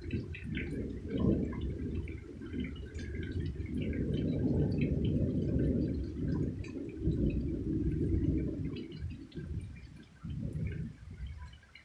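Long rolling thunder: a low rumble that swells and ebbs for several seconds before easing off near the end.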